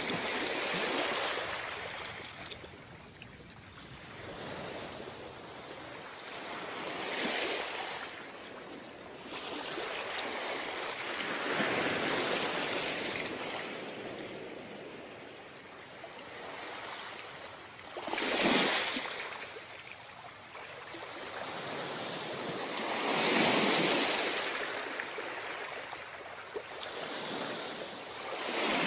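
Ocean waves breaking on a beach, a surge of surf every few seconds, some soft and some louder. The sharpest break comes a little past the middle.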